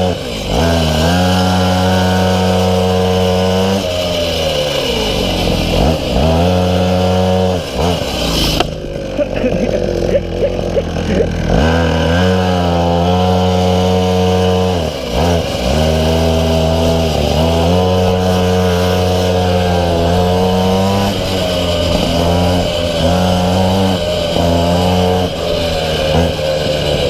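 Minimoto's small two-stroke engine on board, revving up and falling back again and again, its pitch climbing and then dropping off every few seconds.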